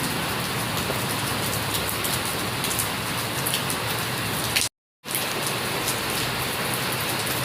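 Steady rain falling, with drops pattering on surfaces. The sound cuts out completely for a split second about two-thirds of the way through.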